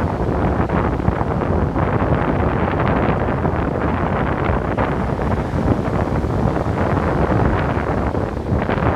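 Ocean surf breaking on a beach: a steady, dense, low rushing wash with little high hiss, no single wave standing out.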